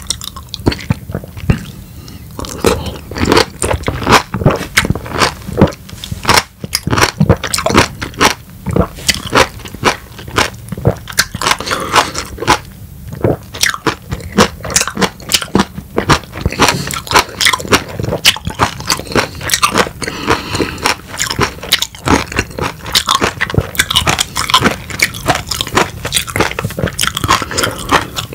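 Close-miked mouth sounds of a man biting and chewing segments of a peeled raw lemon. There are many irregular clicks and smacks throughout.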